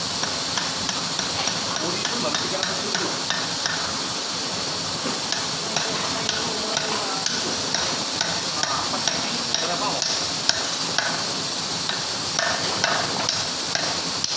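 Light, irregular clicks and taps of hand tools and metal parts during work on a lorry gearbox, over a steady hiss.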